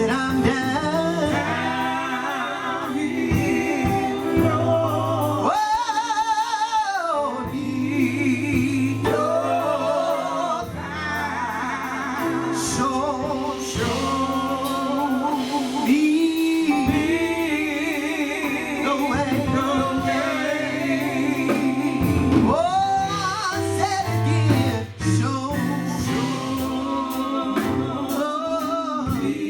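Gospel music performed live: singing with a wavering, vibrato-rich voice over steady held instrumental notes and a low bass line.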